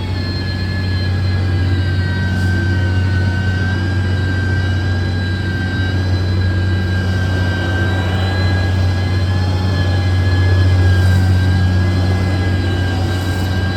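Diesel engine of a heavy road-construction machine running steadily: a deep drone with a high whine above it, growing slightly louder about three-quarters of the way through.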